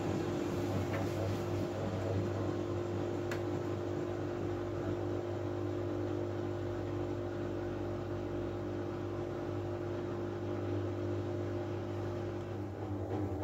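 Miele W433S washing machine spinning its drum at a steady speed, a steady motor whir with an even tone over it.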